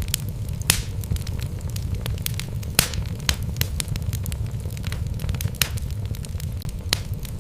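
Wood fire burning in a fireplace: a steady low rumble of flames with irregular sharp crackles and pops from the logs, a couple of them louder than the rest.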